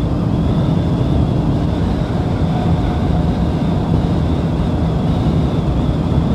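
Bajaj Pulsar NS200's single-cylinder engine running steadily at highway cruising speed, around 100 km/h, with wind rushing over the microphone.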